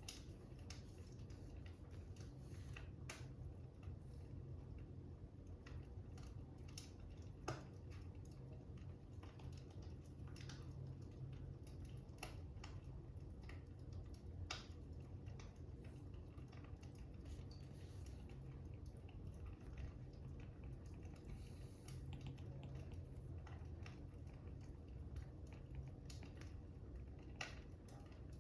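Faint fire crackling: a low steady rumble with sparse, irregular pops and snaps.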